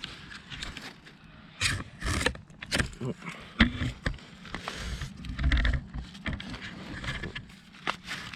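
Irregular rustling and scraping with a few sharp knocks, as someone handles the camera and shifts about close to the microphone.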